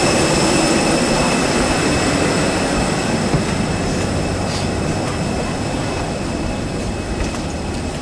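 Airbus A320 cabin noise on the runway after landing: a steady rumble of engines and wheels that slowly eases off.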